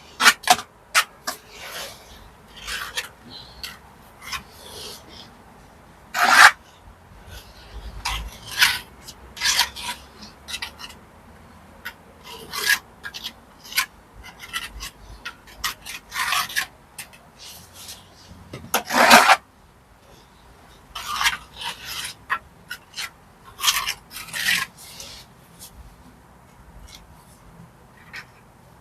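Trowel scraping and pressing wet mortar against brickwork in short, irregular strokes, a few of them louder.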